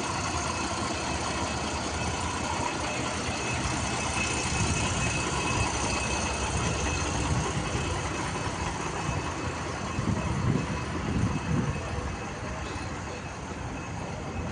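Diesel engine of an Ashok Leyland 3718 cargo truck running steadily, briefly a little louder about ten to twelve seconds in.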